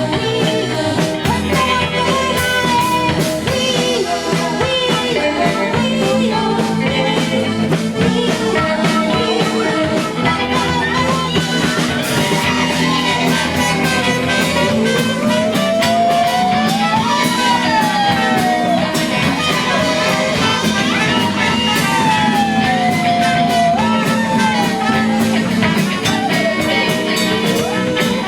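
Rock band playing an instrumental stretch of a song, with a lead melody of long sliding, bending notes over the band.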